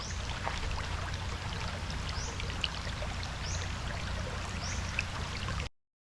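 Water running and trickling steadily over a low rumble, with faint short high chirps every second or so. The sound cuts off abruptly near the end.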